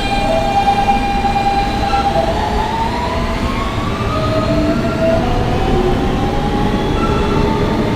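Subway train pulling away from a station, heard from inside an R160B car: the Siemens AC propulsion whines in tones that climb in pitch as the train gathers speed, over a steady rumble of wheels on rail.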